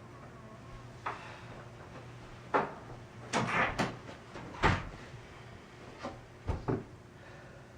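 A string of separate knocks and clunks, as of a door or cupboard being handled, spread over several seconds. The loudest come in a cluster near the middle, with a few softer ones before and after.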